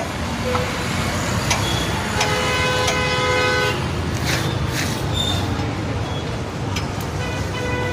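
A vehicle horn sounds once for about a second and a half, over a steady low rumble of engine and road noise.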